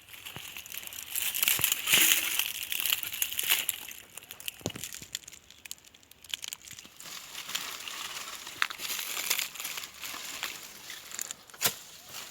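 Crackling and rustling of soil, dry leaves and roots, with scattered sharp knocks and cracks, as a serut (Streblus asper) stump is dug around and pried out. It is loudest a couple of seconds in, with a single sharp crack near the end.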